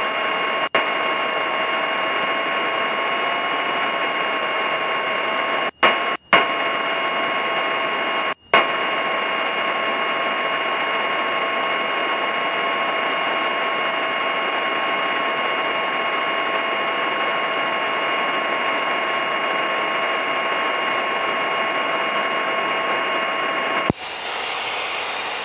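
Steady hiss with several constant tones, heard through the aircraft's radio and intercom audio feed. It drops out briefly about a second in and again a few times around six to eight seconds. Near the end it switches to a fuller, wider sound.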